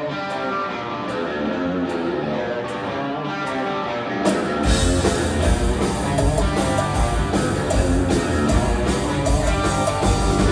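Rock music led by guitar. About four and a half seconds in, a heavy low end of bass and drums comes in and the sound gets fuller and louder.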